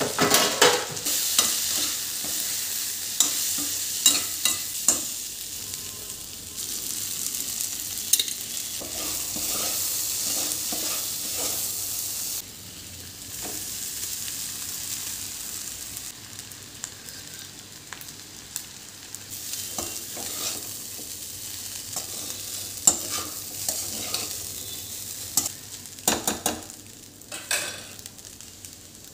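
Food sizzling as it fries in a pan, with a spatula repeatedly knocking and scraping against the pan as it is stirred. The sizzle becomes quieter about halfway through.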